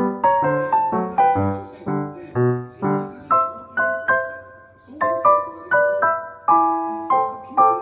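Background piano music: a light melody of single struck notes over a simple bass line, about two to three notes a second, each note dying away.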